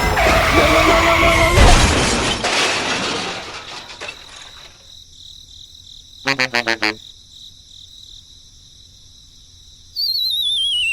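Cartoon sound effects: a loud noisy crash at the start with pitched tones in it, a quick run of about five short pitched blips in the middle, and a wobbling whistle falling in pitch near the end.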